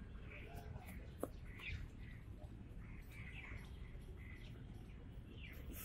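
Birds chirping in a run of short calls over a steady low rumble of background noise.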